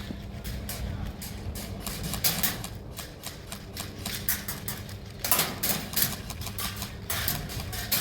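Airsoft guns firing: a rapid, irregular clatter of sharp clicks and snaps, with louder bursts about five and seven seconds in.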